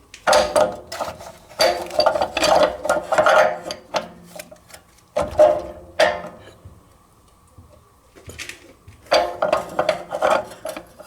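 Small hard parts and tools clinking and rattling as they are handled, in several bouts of quick clicks with short pauses between them.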